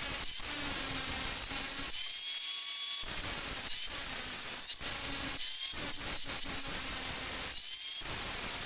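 Electric angle grinder grinding steel: a loud, harsh grinding noise over the motor's hum, easing off the work a few times so the disc's whine rises briefly before it bites again.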